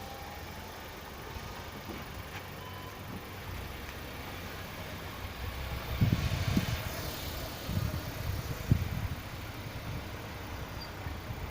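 Skoda Octavia A7 rolling with a steady low rumble and a few heavier low thumps about six to nine seconds in, with faint short squeaks from the brake pads near the start.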